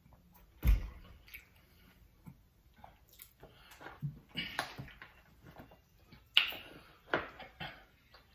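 Close-up mukbang eating sounds: wet chewing, smacking and squishing of saucy seafood boil, with scattered clicks. There is a sharp knock with a low thud about a second in, and louder wet smacks near the middle and toward the end.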